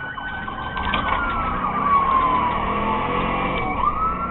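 Police car siren wailing: the tone falls slowly, then climbs quickly back up near the end, over the rumble of a vehicle's engine and road noise.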